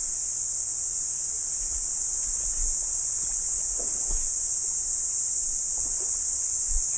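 Cicadas chorusing: a steady, unbroken high-pitched drone.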